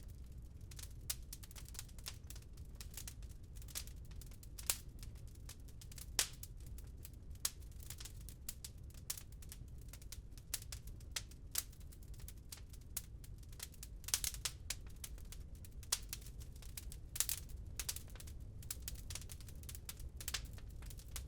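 Wood fire crackling in a fireplace: irregular sharp snaps and pops, a few clearly louder than the rest, over a steady low rumble.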